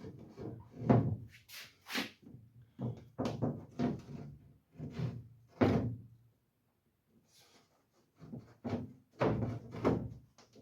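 Irregular thunks and knocks of a sheet-metal truck rear fender being shifted and bumped against the body while it is worked onto its bolts. There is a short pause about two-thirds of the way through.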